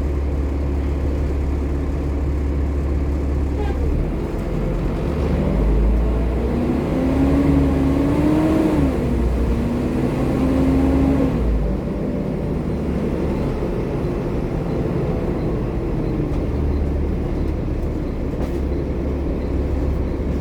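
Volvo B7TL double-decker bus's six-cylinder diesel running with a steady low drone. About six seconds in it accelerates: a whine climbs in pitch, dips once as it changes gear, climbs and holds, then falls away about twelve seconds in as the bus eases off.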